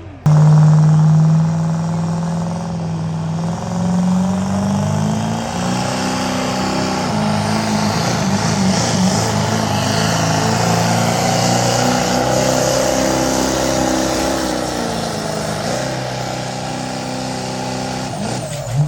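Diesel truck engine running hard under sustained heavy throttle: one long loud drone that starts suddenly, climbs a little in pitch over the first few seconds, holds, and sags slightly near the end.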